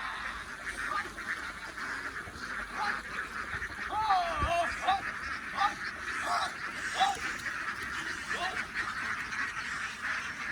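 A large flock of ducks quacking together in a dense, continuous chatter, with a few louder single quacks standing out now and then.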